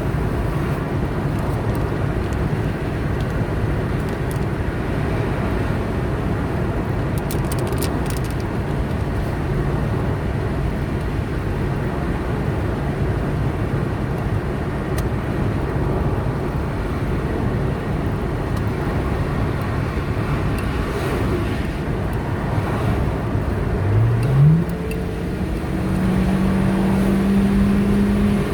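A car driving on a highway: steady road and tyre noise under a low engine tone. Near the end the engine pitch rises quickly and then holds higher as the car picks up speed.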